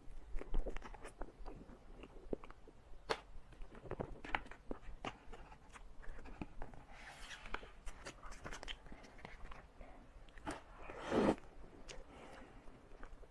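Close-miked chewing of crepe cake: irregular soft, wet mouth clicks and smacks, with a louder, longer sound about eleven seconds in.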